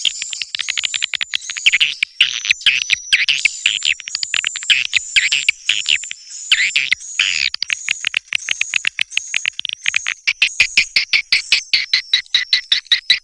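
Swiftlets calling: a dense stream of rapid clicking trills and high chirps. Slurred chirps in the first half give way to faster, evenly spaced clicking rattles in the second half.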